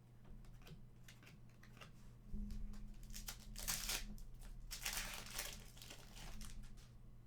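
Plastic wrapper of a hockey trading-card pack crinkling and being torn open, in crackly rustles that build up about two seconds in and fade near the end, over a faint steady hum.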